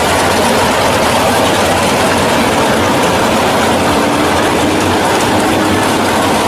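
1968 Pontiac GTO drag car's engine idling loud and steady as the car rolls slowly toward the line.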